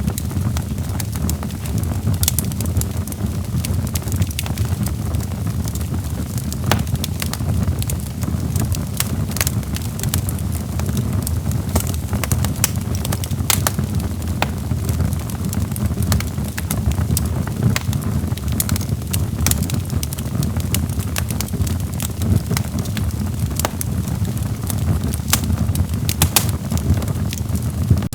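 Wood fire in a fireplace burning, logs crackling with many sharp, irregular pops and snaps over a steady low rumble of the flames.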